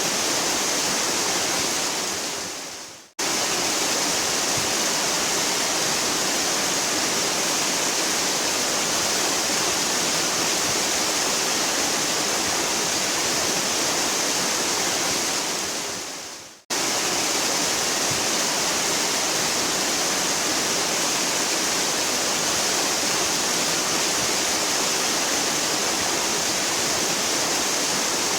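Waterfall rushing with a steady, hissing roar. Twice the sound fades away over about a second and then cuts straight back in, about three seconds in and again about sixteen seconds in.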